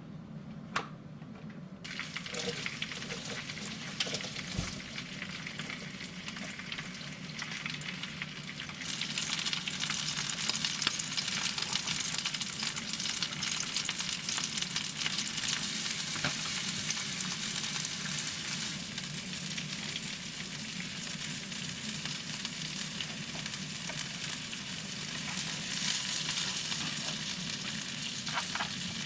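Food sizzling and frying in a hot pan, starting about two seconds in after a couple of clicks and growing louder about nine seconds in.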